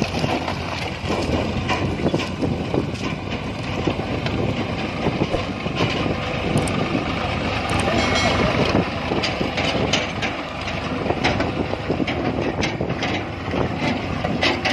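Diesel machinery running steadily, with irregular knocks and clatter throughout and a brief higher-pitched tone around the middle.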